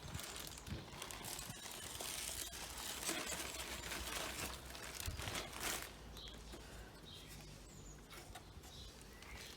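Sunflower hearts being poured into a bird feeder: a crackly rustle of seed pouring that is heaviest for a few seconds and thins out about six seconds in.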